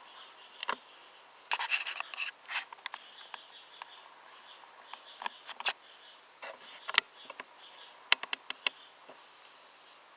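Handling noise from a 1:18 scale diecast model car being turned over in the hands: irregular small clicks, taps and rubbing scrapes, with a cluster about one and a half to two and a half seconds in and another of sharp clicks near the end.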